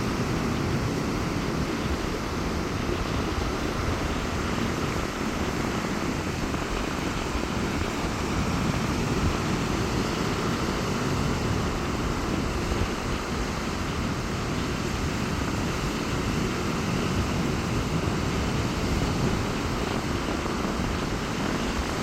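Sea surf washing onto a beach in strong wind: a steady rush of waves with wind rumbling on the microphone.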